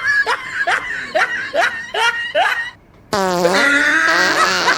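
Laughter in about six rhythmic rising bursts. After a short pause, a sudden low, buzzy fart sound about three seconds in, then more laughter and voices.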